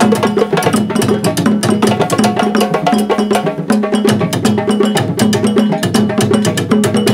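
Percussion ensemble of timbal hand drums playing a fast, dense rhythm of sharp strokes over a repeating low drum pattern.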